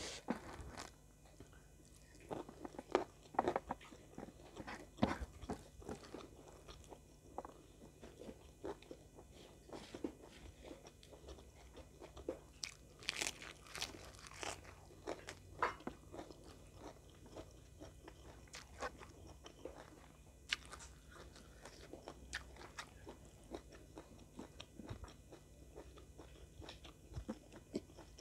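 Close-miked eating: irregular crisp crunches and chewing as food is bitten and chewed, with the loudest bursts of crunching at about 3, 5, 13–14 and 20 seconds.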